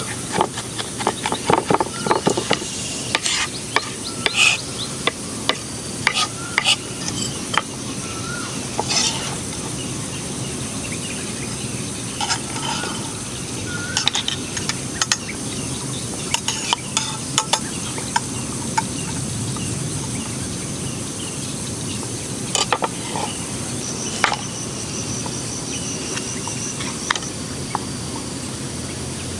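Food sizzling on a hot cooking stone, with scattered clicks and scrapes of a utensil that are busier in the first half.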